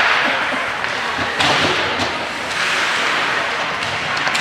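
Hockey arena crowd noise rising and falling in swells of cheering and clapping, with a few sharp knocks of sticks and puck.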